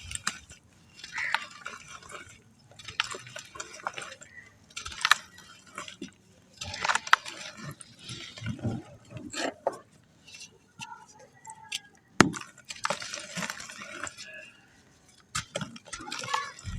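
Water-soaked clumps of black sand crumbling and breaking apart in repeated bursts of gritty crunching and crackling, one every second or two, with a sharp snap about twelve seconds in.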